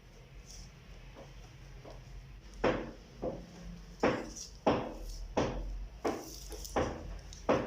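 A series of sharp knocks, about eight in a row at a steady pace of roughly one and a half a second, starting about a third of the way in.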